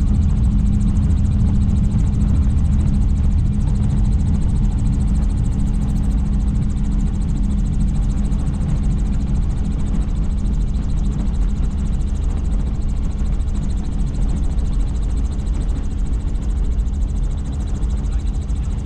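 Helicopter in flight: the steady, loud drone of its engine and rotor, with a constant low hum and no change in pitch.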